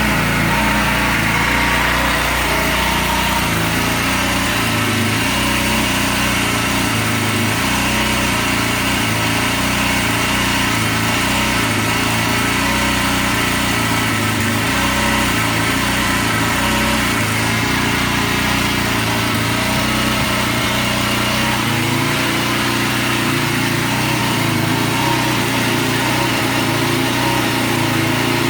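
Petrol engine of a pressure washer running steadily at a constant speed, with a hiss over it.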